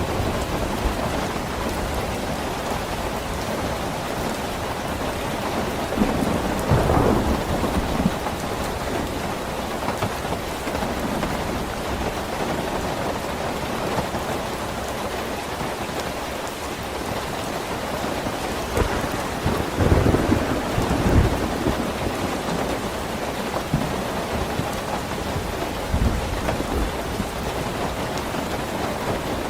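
Steady rain with rolls of thunder, one about six seconds in and a longer one around twenty seconds in.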